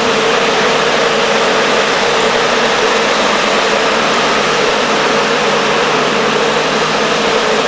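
Erjo 9/93 wood chipper and the machine driving it running steadily: a loud, even machine noise with a strong steady hum.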